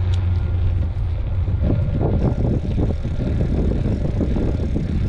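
Wind rushing over the microphone of a camera riding along on a moving bicycle: a loud, steady low rumble with an uneven crackle and rattle from the bike on the trail.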